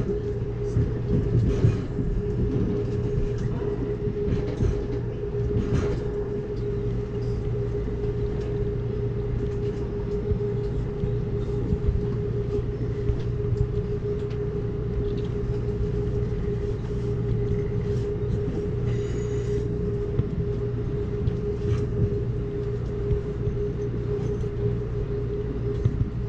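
Amtrak Cascades passenger train running along the track, heard from on board. A steady rumble with a constant hum, broken by scattered clicks and knocks from the running gear over the rails.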